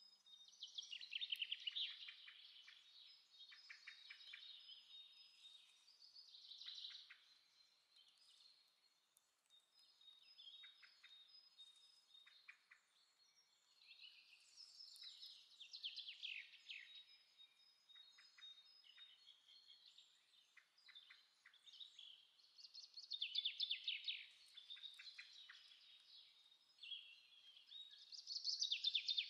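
Faint birdsong: small birds singing repeated phrases of quick high chirps every few seconds, with a thin steady high whistle behind them at times.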